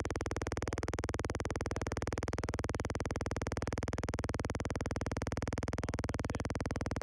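Electronic synthesizer sound pulsing evenly, about ten pulses a second, at a steady level.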